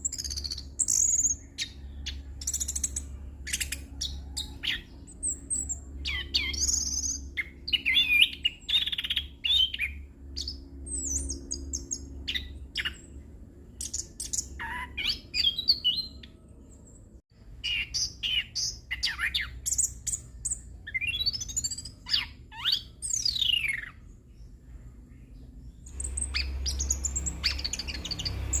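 Chestnut-capped thrush (anis kembang) singing a long, rolling song of fast, varied whistles, trills and chirps packed with mimicked phrases, pausing briefly a little past the middle. A steady low hum runs underneath.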